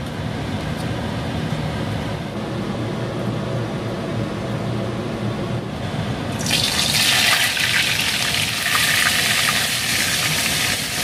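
A pot of water boils with a low, steady bubbling while greens are stirred in it. About six seconds in, a loud frying sizzle suddenly starts as slices of wet, seasoned tempeh are laid into hot oil in a frying pan. The sizzle flares up again as more slices go in.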